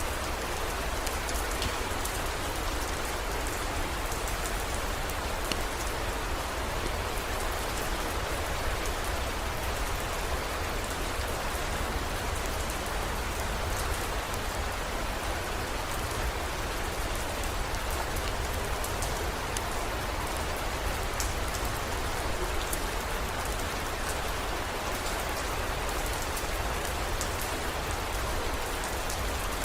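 Steady heavy rain falling, an even hiss with scattered sharp drop ticks and a constant low rumble underneath.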